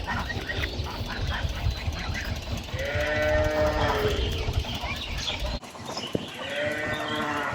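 A farm animal gives two drawn-out, slightly falling calls of about a second each, over scattered higher bird chatter. A low rumble under the first part cuts off abruptly about five and a half seconds in.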